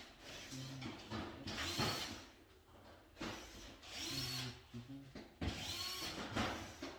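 Cordless electric screwdriver driving terminal screws in several short runs, each spinning up with a rising whine.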